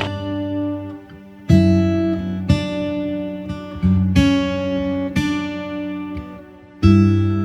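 Acoustic guitar music: strummed chords rung one at a time and left to fade, a new chord about every one to one and a half seconds.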